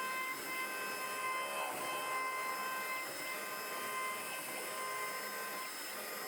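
CNC router spindle carving wood: a steady whine of several high tones over a rushing cutting noise.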